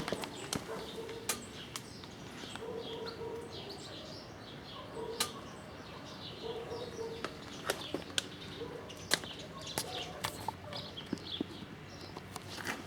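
Small birds chirping and twittering, with scattered sharp clicks and a few short low hums.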